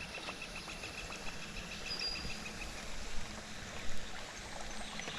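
Quiet lakeside ambience around a small boat: faint water sounds, with a thin, evenly pulsed chirp that stops about halfway and two soft knocks near the end.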